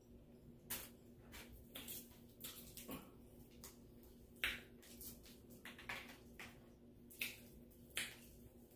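Close-up mouth sounds of eating fried chicken: chewing and lip smacks heard as a string of irregular soft clicks, the loudest about halfway through and twice near the end.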